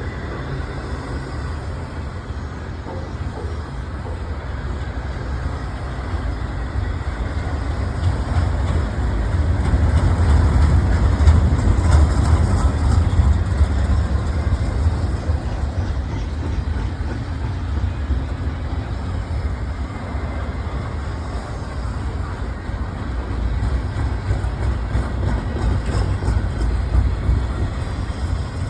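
Intermodal freight train rolling past: a steady low rumble of wheels on rail with a noisy rattle above it, swelling louder about ten seconds in and again near the end.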